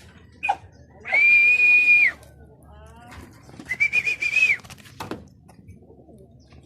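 Two long, steady whistles on one high note, about a second each and a couple of seconds apart, used to call pigeons to feed.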